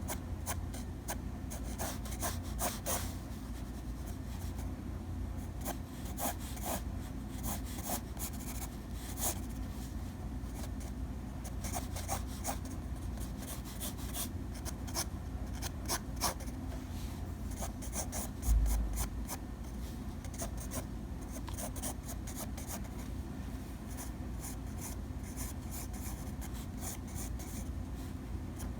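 Hand drawing: a drawing tool scratching and rubbing across a surface in many short, quick strokes, over a low steady hum, with one soft low thump about 18 seconds in.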